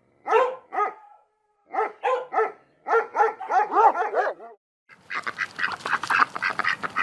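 Dog barking over and over in short, high barks until about four and a half seconds in; after a brief pause, a denser, faster run of different animal calls begins.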